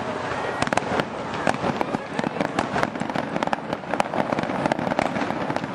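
Aerial fireworks shells bursting in quick succession: a dense run of sharp bangs, several a second, with no let-up.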